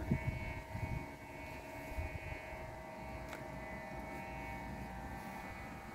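A steady droning hum of several held tones at once, over an uneven low rumble of wind on the microphone.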